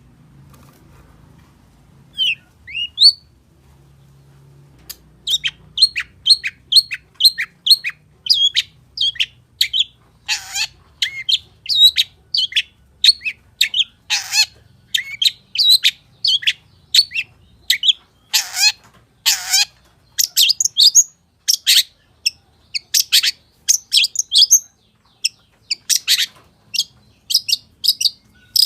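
Long-tailed shrike (pentet) singing. A couple of short high calls come first, then from about five seconds in a fast string of sharp chirps, two to three a second, broken several times by harsh, scratchy calls.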